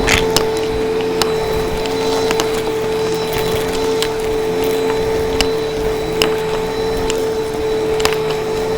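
Vacuum cleaner running with a steady pitched motor whine, with irregular crunches and clicks as bits of debris are sucked up.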